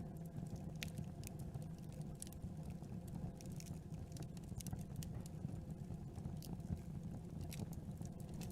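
Campfire burning: irregular sharp crackles and pops from the wood over a steady low rumble of the flames.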